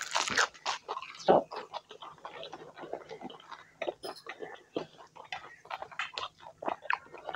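Close-up chewing of a fried samosa roll: a run of short, irregular mouth smacks and clicks.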